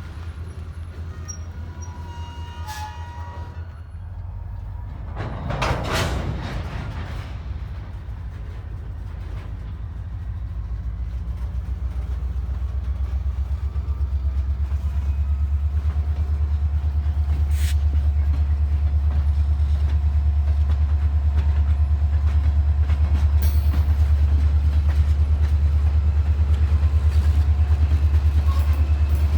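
Diesel freight train rumbling, its deep steady drone growing louder over the second half as it draws closer; a brief loud whoosh about six seconds in.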